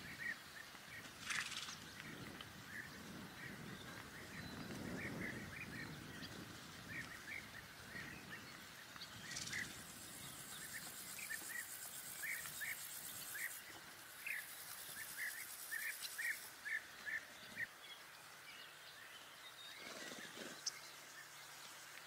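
Small birds chirping, short calls repeated many times over faint outdoor ambience, with a high hiss joining in for several seconds midway.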